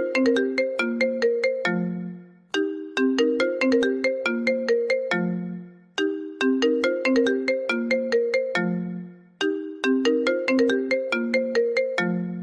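An iPhone ringtone playing: a short melody of quick, bright notes that loops about every three and a half seconds, each phrase ending on a lower note that dies away before the melody starts over.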